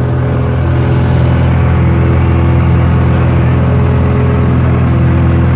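Cessna 172's piston engine and propeller droning at a steady speed.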